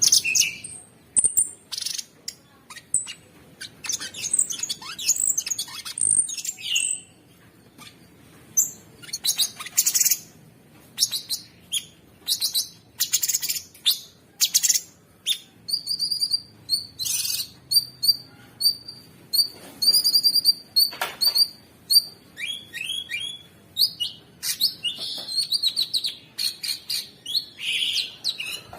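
Cucak sungkok singing a loud, busy song of sharp, high chirps and trills. In the middle comes a fast run of short repeated notes.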